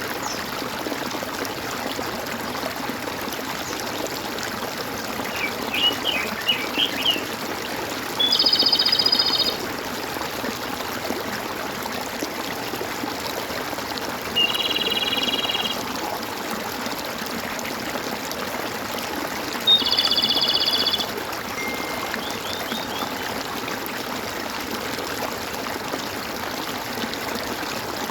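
Steady gurgling of running water, with a bird calling over it: a quick run of chirps about six seconds in, then three loud buzzy calls about a second long each, some six seconds apart.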